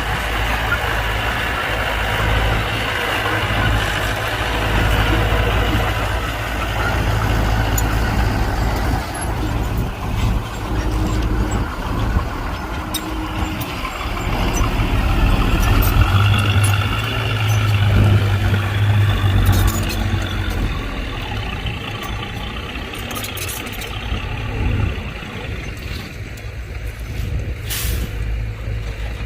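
Heavy diesel earthmoving machinery running steadily with a deep engine drone, and a few short knocks over it.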